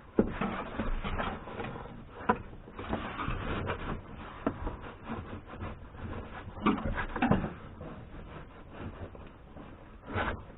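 A car's interior headliner being worked loose and handled: irregular rubbing and scraping, with several sharp knocks and clicks scattered through.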